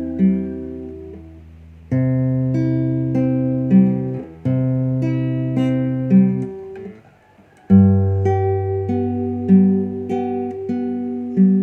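Background music: a plucked acoustic guitar playing in phrases of held notes, breaking off briefly about seven seconds in before starting again.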